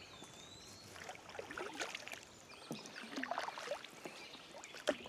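Kayak paddle strokes: the double-bladed paddle dipping and pulling through calm water, a soft swish and drip about every second and a half.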